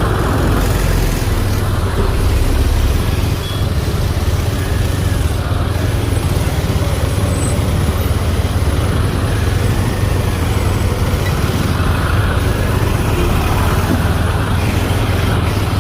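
Motorcycle ride on a road: steady engine and road noise with a heavy low rumble throughout.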